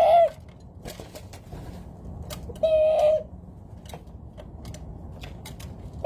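A dove calling: a short, nasal, steady-pitched note that drops at the end, given three times about three seconds apart, with scattered light clicks between.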